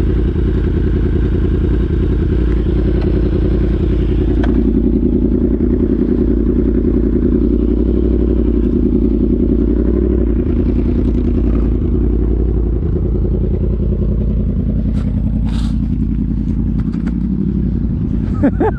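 Yamaha R1 sportbike's inline-four engine running at road speed, its note shifting a couple of times, with a few sharp knocks and clatter in the last few seconds.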